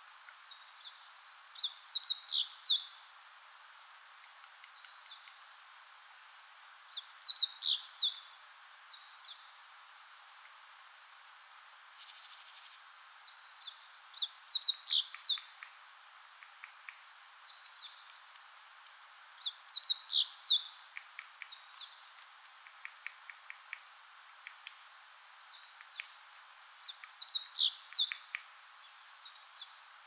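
Wild songbirds in the wood: a bird repeats a short phrase of quick, high, downward-sliding notes about every six seconds, with scattered thin call notes in between, over a faint steady hiss.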